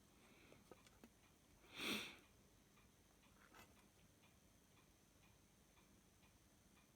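Near silence, broken by one short sniff about two seconds in and a few faint clicks.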